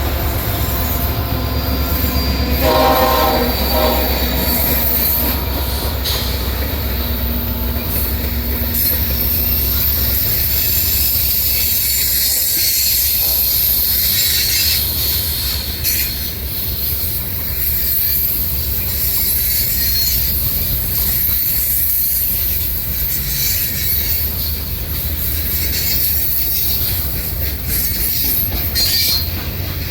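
A train rolling past, with a steady low rumble, wheel clatter and high-pitched wheel squeal throughout. A short locomotive horn blast sounds about three seconds in.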